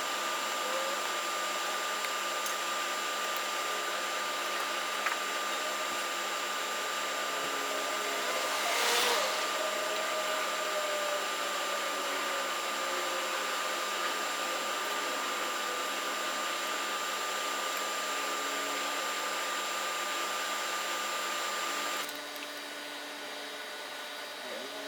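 A motorised machine running steadily: a constant hiss with fixed high whining tones. It drops in level and changes character about 22 seconds in.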